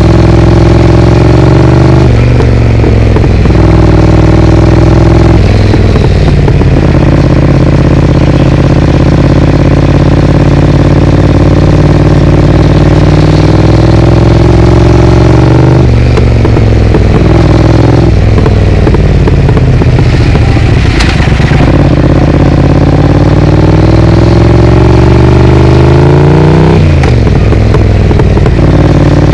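Triumph Speed Twin's parallel-twin engine running through a Vance & Hines aftermarket exhaust, riding in traffic. The engine note rises and falls with the throttle, with a few sharp breaks where gears are changed.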